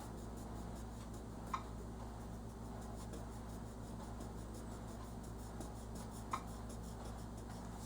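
Wax crayon being rubbed back and forth on paper while colouring, a faint, rapid scratching, with two small ticks about a second and a half in and near the end. A steady low hum runs underneath.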